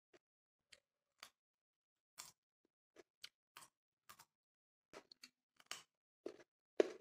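Crunching of a raw carrot being bitten and chewed: a string of short, crisp crunches at irregular intervals, the loudest two near the end.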